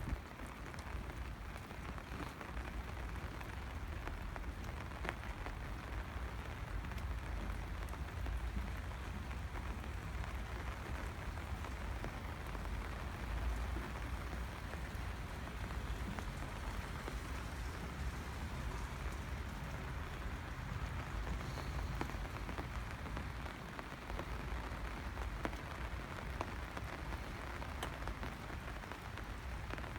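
Steady rain falling, with many small drop hits scattered through it, over a low rumble.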